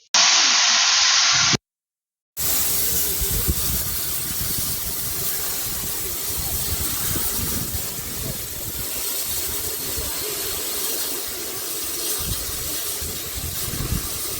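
Steam locomotive hissing steadily as it lets off steam, with low rumbling gusts underneath. A brief loud hiss at the start stops dead about a second and a half in, then the steady hiss comes back after a short silence.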